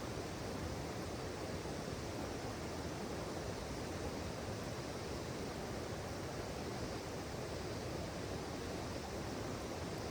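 Steady rushing of a flowing river, an even noise with no breaks.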